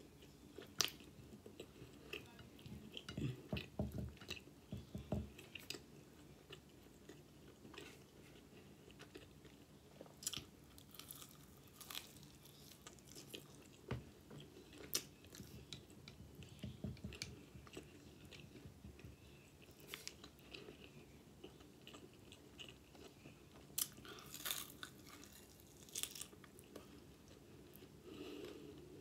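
A person chewing and biting into chicken wings, with many short, irregular clicks of the mouth and teeth.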